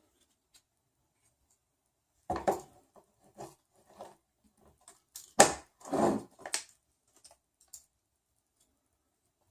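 Hand assembly noises from 3D-printer kit parts: a few separate knocks and clicks as parts are handled and set down, with a short scrape near the loudest moment about halfway through.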